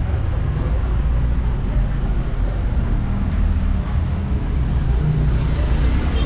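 Steady low rumble of a moving motor vehicle on the road.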